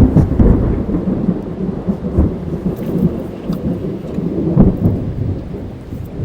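Thunder heard from inside a car over steady rain on the car: a loud clap right at the start, then a low rolling rumble that swells again about four and a half seconds in.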